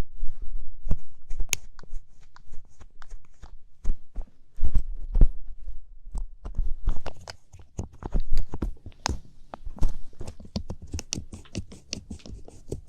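Light-up ear pick scraping and scratching in an ear, close to the microphone: an irregular run of crackly scratches and small taps.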